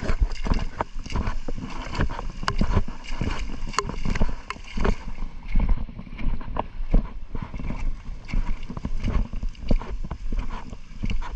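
A small boat's hull knocking and slapping irregularly on choppy water as it runs through rough sea, over a steady low rumble.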